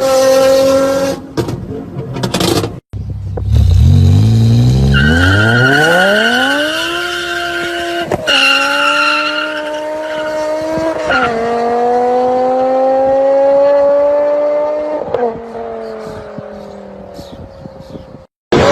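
A car's engine and exhaust under hard acceleration: the engine note climbs steeply, then steps down in pitch at each upshift as the car pulls through the gears before fading away. A different engine sound is heard briefly at the start and is cut off abruptly about three seconds in.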